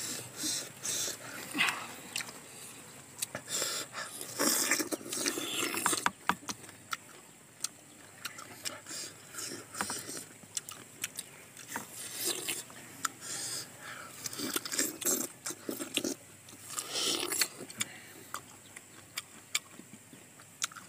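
Close-up mouth sounds of two people biting and chewing crisp, juicy star fruit: a run of wet crunches and small clicks, louder in patches.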